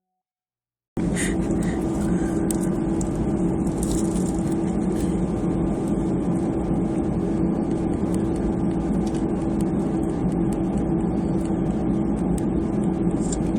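Steady noise of an Airbus A320's jet engines running, heard inside the cabin, with a low steady hum under it. It starts abruptly about a second in.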